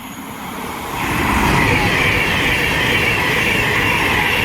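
Class 390 Pendolino electric train passing through at speed: a loud rushing of wheels and air that swells over the first second, then holds steady with a wavering hiss on top.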